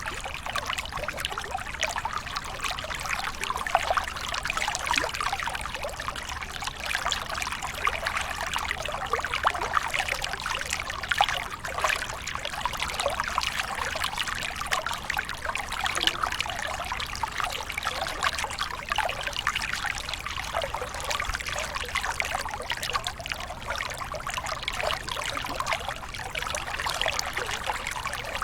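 Water from a small waterfall pouring and splashing steadily, with a dense patter of trickles and droplets.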